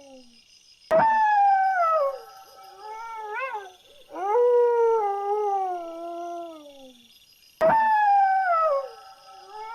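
Dog howling: three long howls, each sliding down in pitch, with a short rising-and-falling whine between them.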